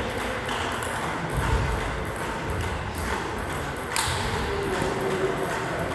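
Table tennis ball clicking off bats and table, a few scattered sharp hits about a second or more apart, in a large hall with a murmur of voices behind.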